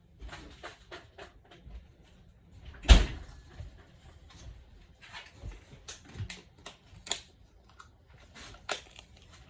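Kitchen handling sounds: a string of light clicks and knocks from dishes and utensils, with one sharp, loud knock about three seconds in.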